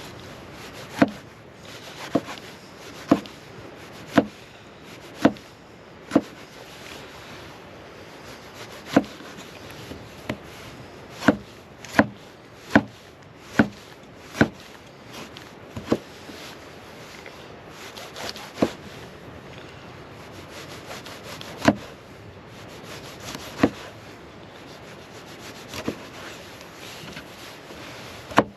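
A series of sharp wooden knocks, about one a second for the first half, then more spaced out, as wood is struck repeatedly, with a steady rubbing hiss between the strikes.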